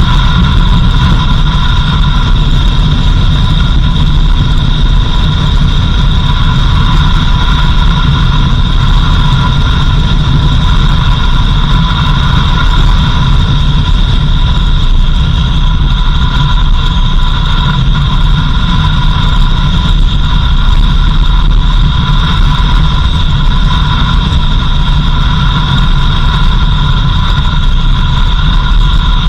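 Off-road vehicle driving on a dirt road: a loud, steady low rumble of engine and tyres, with a constant high whine over it.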